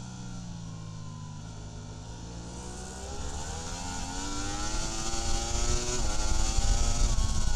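Superbike racing motorcycle engine heard from the onboard camera. The note falls for about two seconds, then climbs steadily as the bike accelerates, with a quick gear change about six seconds in. Wind rush builds as the speed rises.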